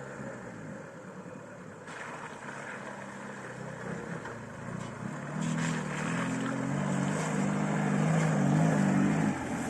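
Lada Niva VAZ-21218's four-cylinder engine running as the car drives off-road, with tyre and ground noise joining about two seconds in. Both grow louder from about halfway through as the engine is worked harder.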